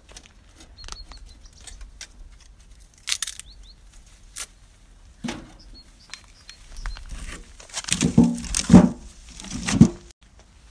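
Hogs rooting and snuffling: scattered clicks and rustles, then three loud, low grunts in the last few seconds. A few short bird chirps sound early on.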